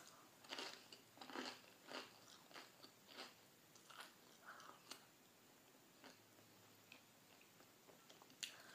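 A person chewing and crunching a bite of grilled cheese sandwich close to the microphone. There is a string of faint crunches for about the first five seconds, then only a few quieter ones.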